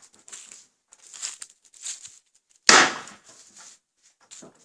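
Scattered knocks and scrapes, then one loud, sharp bang a little past halfway that trails off: debris being handled while a flood-damaged house is dismantled.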